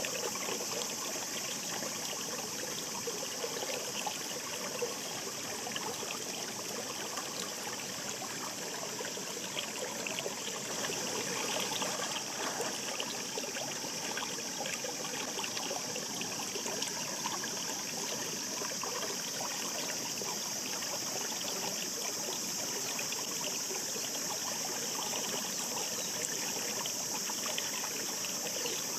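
Shallow mountain stream babbling and trickling over stones: a steady rush of water with many small splashes.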